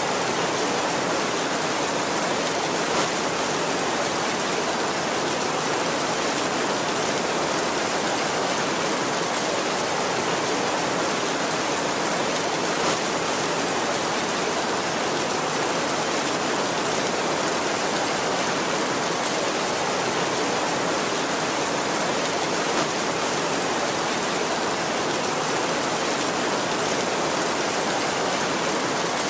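Heavy rain falling steadily on a tin roof, a dense, even hiss.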